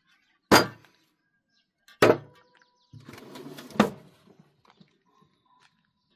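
Three sharp knocks, the first two about a second and a half apart, with a rough rumble for about a second leading into the third.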